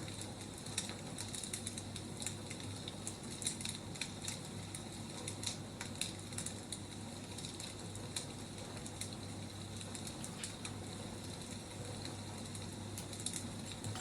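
Wood fire crackling faintly: small irregular pops and snaps over a soft steady hiss.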